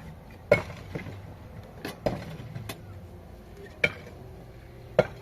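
Six or so sharp, irregularly spaced clicks or knocks, the loudest about half a second in and just before the end, over a low steady background hum.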